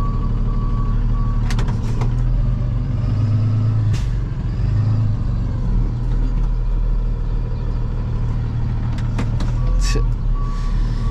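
Box truck reversing slowly toward a loading dock, its engine running low and steady. Its backup alarm beeps at an even pace at the start and again near the end, with a few sharp clicks in between.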